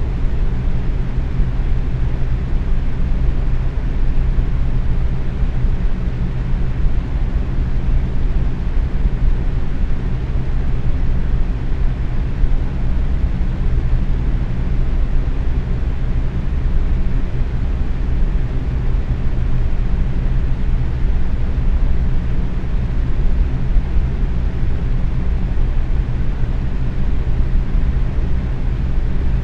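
Box fan running steadily on medium speed: an even rush of moving air with a low hum underneath.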